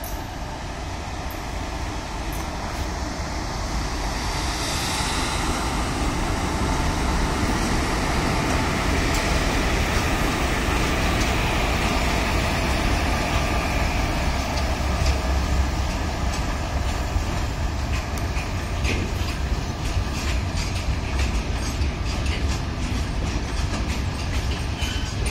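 A pair of Indian Railways WAG5 electric locomotives hauling a freight train past, the rumble growing louder over the first several seconds as they come by. Then the goods wagons roll past, with quick regular clicks of wheels over rail joints from about two-thirds of the way through.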